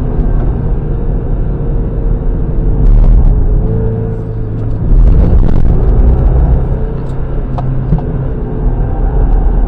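Mazda MX-5 NB's 1.8-litre four-cylinder engine driven hard on track, heard through an onboard camera, its revs rising and falling over a heavy low rumble, with sudden louder stretches about three and five seconds in.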